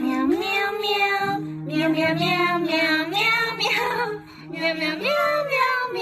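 A song with a high voice singing held, gliding notes over a low sustained accompaniment, with short breaks between phrases.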